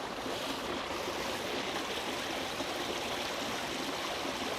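Creek water running steadily over a small rock slide, cascading down in an even rushing hiss.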